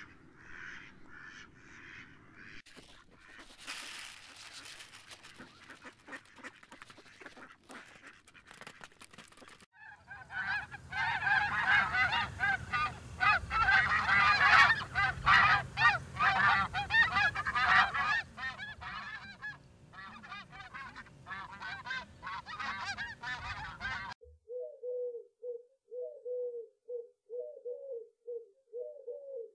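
Geese honking loudly from about ten seconds in, after fainter calls at the start. At about twenty-four seconds the sound cuts to a pigeon cooing in repeated low notes.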